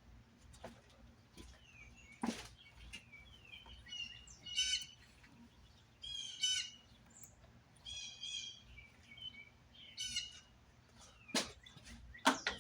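A bird calling over and over, a short chirpy call about every two seconds. A few sharp clicks and knocks come in between, with a cluster of them near the end.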